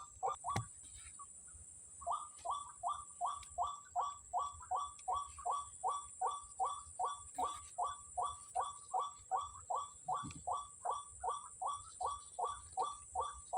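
White-breasted waterhen calls: a fast, even series of short "kwak" notes, about three a second, which pause briefly and resume about two seconds in.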